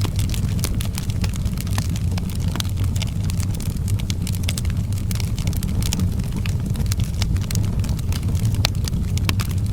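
Outdoor wood fire crackling: many sharp, irregular pops and snaps over a steady low rumble of the flames.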